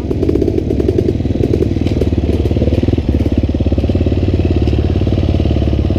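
Four-stroke 250cc dirt bike engine running steadily at low, even revs.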